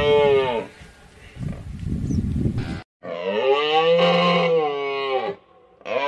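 Cattle mooing: a short moo at the start, a long drawn-out moo from about three seconds in, and another moo beginning near the end, with a rough low rumble between the first two.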